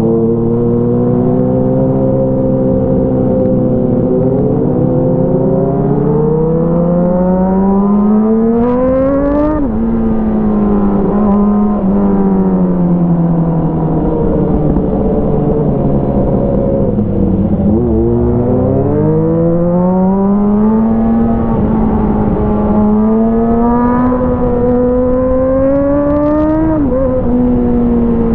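Motorcycle engine running through an aftermarket Avionic exhaust under way. Revs climb slowly and drop sharply about nine seconds in as it shifts up, fall away, then climb again and drop once more near the end at the next shift.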